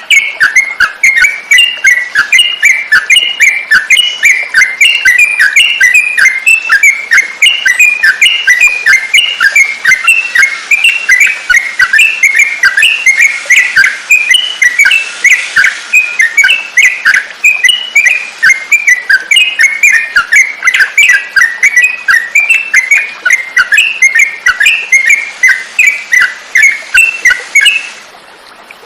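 Yellow-vented bulbul (trucukan) singing a loud, continuous run of short bubbly chirps, several a second, that stops shortly before the end.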